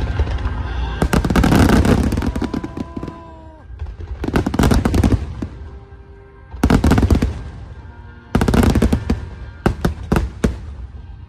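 Fireworks bursting and crackling in rapid clusters, coming in about five volleys with quieter gaps between them, while music plays underneath.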